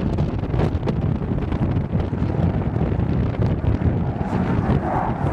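Wind buffeting the microphone: an uneven low rumble with no clear tone or rhythm.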